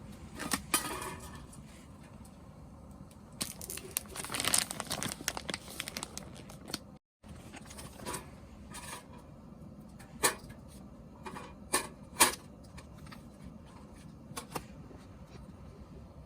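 Handling noise: rustling and crinkling for a few seconds, then several sharp clicks and knocks.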